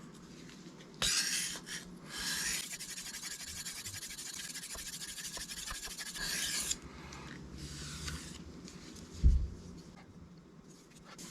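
A knife blade being stroked across a sharpening stone, making a scraping hiss that runs from about a second in to past the middle. A shorter stroke follows, then a low thump a little after that.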